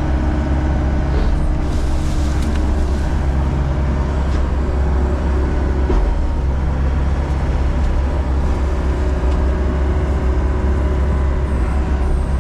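John Deere 60G compact excavator's diesel engine running steadily, with a brief rushing noise about two seconds in.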